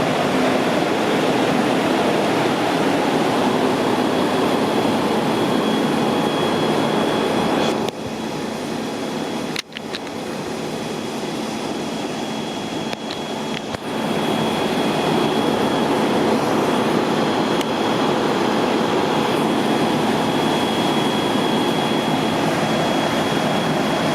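Steady rushing noise of water pouring from a broken water main. It is quieter for several seconds in the middle, with a couple of brief drop-outs.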